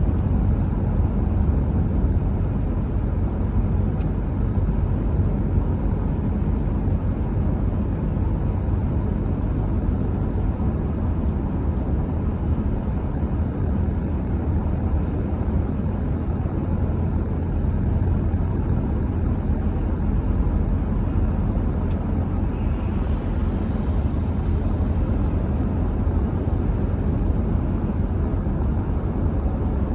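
Steady low rumble of a car driving along a road: road and tyre noise with the engine, even throughout and with no changes in speed or pitch.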